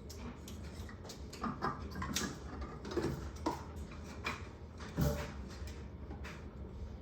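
Scattered knocks and clicks of parts being handled and pushed into place while a printer is assembled, over a low steady hum.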